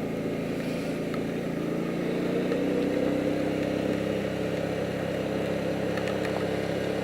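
Motorcycle engine running under way, its pitch rising a little about two seconds in as it speeds up, then holding steady.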